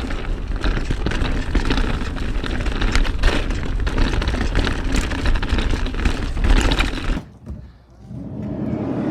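Wind buffeting the camera microphone, with tyres and drivetrain clattering over dirt during a fast ride on a 2020 Ibis Ripmo mountain bike. The noise cuts off suddenly about seven seconds in, then builds back up.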